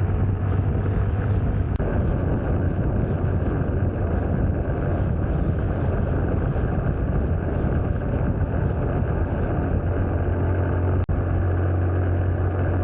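Motorcycle engine running steadily at road speed, with a steady low hum under road and wind noise. The sound briefly cuts out about eleven seconds in.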